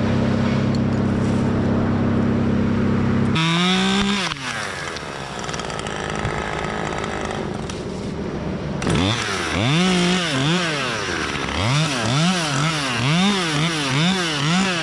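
Two-stroke chainsaw at full throttle, its pitch dropping as the throttle is released about three seconds in. It runs quieter for several seconds, then is revved up and down repeatedly in quick blips toward the end.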